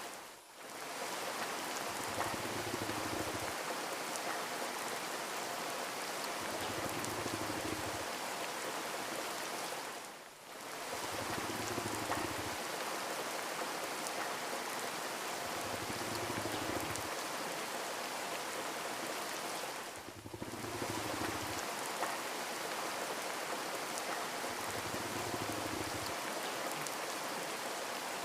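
Steady rain falling and pattering on surfaces, an even hiss that dips briefly about every ten seconds.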